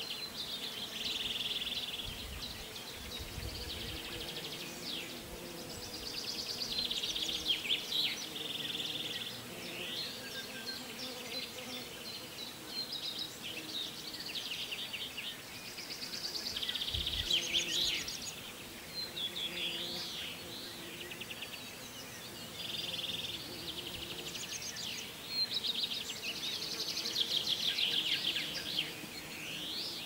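Several songbirds singing together in a busy chorus of chirps, trills and quick whistled phrases, with a faint low humming underneath.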